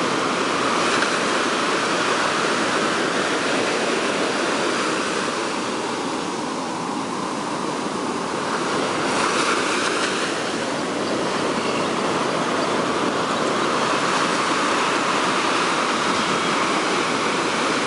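Ocean surf breaking and washing up the beach: a steady rush of waves, swelling a little louder about halfway through.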